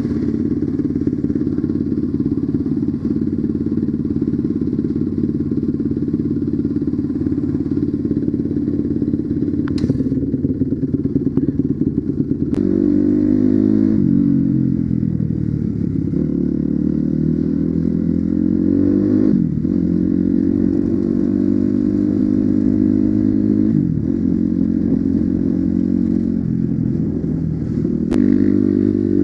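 Dirt bike engine running at a steady low speed, then from about twelve seconds in revving up and down repeatedly, its pitch rising and falling.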